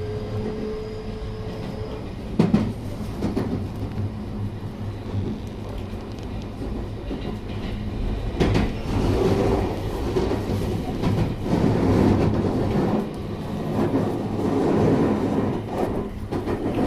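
Running sound inside a JR West 223 series 6000-number motor car (KuMoHa 223). The traction motor whine rises slightly and stops about two seconds in. After that the wheels rumble and clack over the rail joints, with sharp knocks about two and a half and eight and a half seconds in.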